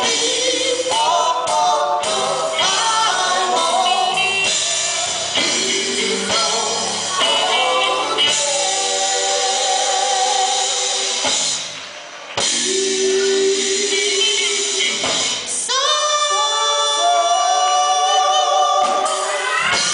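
Gospel vocal group singing with instrumental backing, with a brief drop in level about twelve seconds in.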